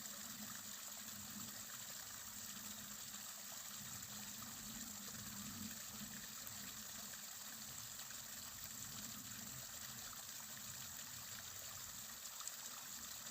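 Faint, steady rush of flowing water, as from a stream.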